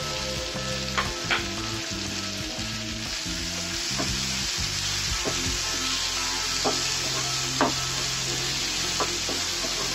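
Chopped onions, green chillies and freshly added tomatoes sizzling in hot oil in a non-stick frying pan, stirred with a wooden spatula that knocks sharply against the pan about six times.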